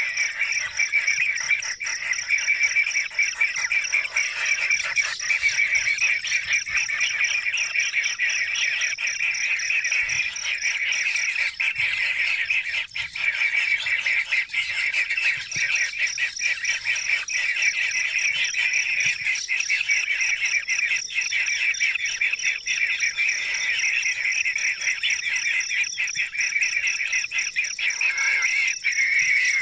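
Steady chorus of calling animals: a dense, high, trilling band with a thinner, even higher steady tone above it, unbroken throughout.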